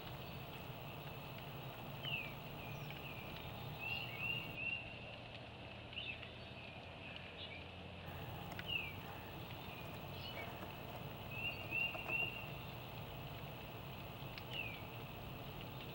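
A bird calls over and over in short, high, falling notes, some single and some in quick runs of three or four (about four and twelve seconds in), every two to three seconds over steady low background noise.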